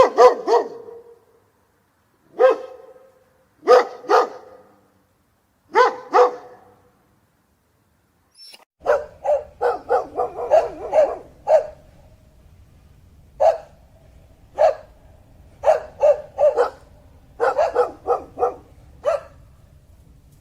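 A dog barking: single and paired barks a second or two apart, then, about nine seconds in, a quicker run of barks over a faint low hum.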